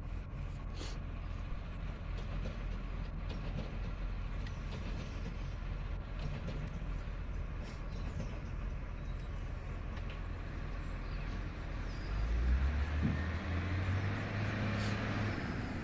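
Garbage truck's diesel engine running with a steady low rumble, then revving higher about twelve seconds in.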